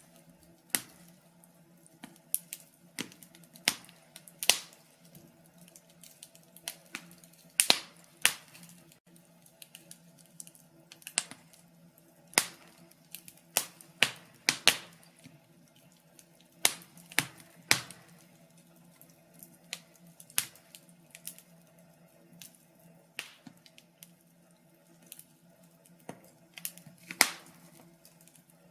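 Wood fire crackling in a fireplace: irregular sharp pops and snaps, some loud and some faint, over a faint steady low hum.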